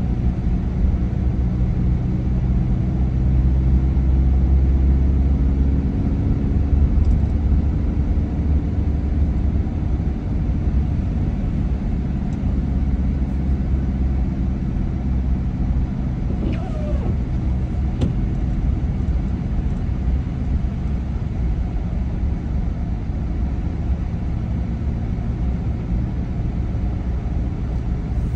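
A car driving: a steady low rumble of engine and road noise, with the engine note drifting slightly in pitch during the first half.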